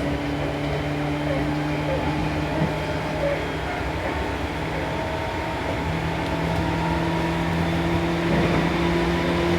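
Seibu New 2000 series electric train running, heard inside the car: a steady rail and running rumble with a motor hum whose pitch steps up slightly about six seconds in as the train gains speed.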